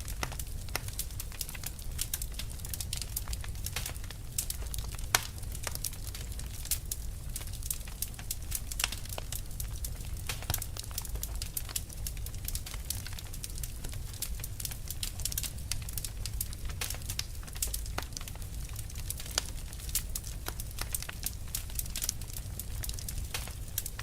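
Fire crackling: a dense, irregular run of sharp pops and snaps over a low steady rumble, with one louder pop about five seconds in.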